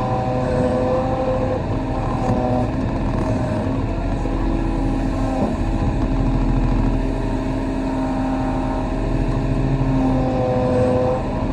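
Kobelco SK35 compact excavator's diesel engine running under load, with hydraulic whining tones that shift in pitch every few seconds as the machine works.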